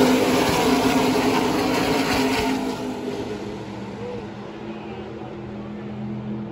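NASCAR race trucks' V8 engines passing at speed, loud at first and then fading over about three seconds as the pack moves away, leaving a quieter, steady drone of engines further around the track.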